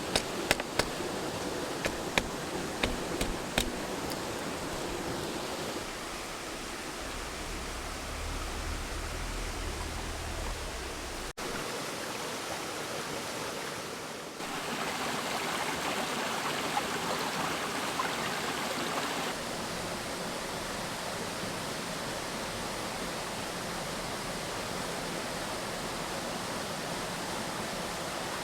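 Mountain stream rushing over rocks: a steady wash of water that jumps abruptly louder and softer a few times. A few sharp clicks come in the first few seconds.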